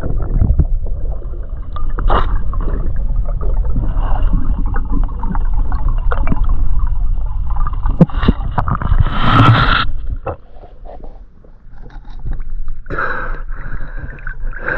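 Water sloshing and gurgling close to the microphone, with scattered knocks and a louder rush of water about nine seconds in.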